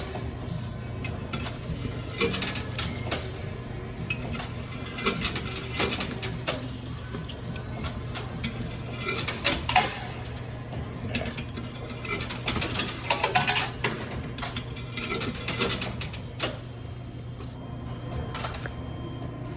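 Coins clinking and clattering in a coin pusher machine, in irregular clusters of metallic clicks, over a steady low hum.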